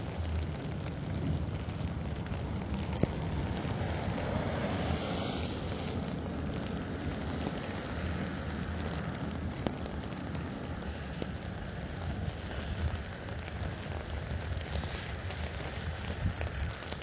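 Steady rain drumming on an umbrella and wet pavement, with car tyres hissing on the wet road and a low traffic rumble beneath. A couple of sharp single drips tick on the umbrella.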